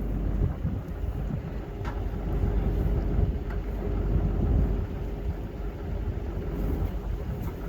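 Strong blizzard wind buffeting the microphone: a loud, gusting low rumble, with a faint steady hum underneath.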